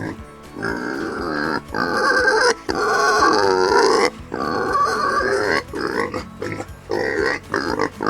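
Pig calls: a run of pitched vocal calls broken by short gaps.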